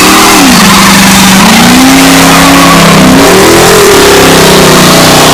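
Car engine revved hard and held at high revs for a burnout, its pitch climbing again about a second and a half in, over a dense hiss of spinning tyres. Very loud throughout.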